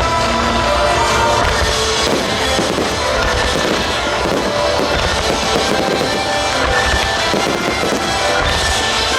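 Aerial fireworks bursting and crackling over music played for the show. Pitched music stands out at first, then from about two seconds in a dense crackle of many small bursts takes over.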